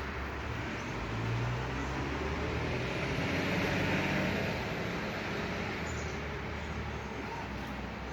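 A road vehicle passing, its noise swelling and then fading over a steady background of traffic hum.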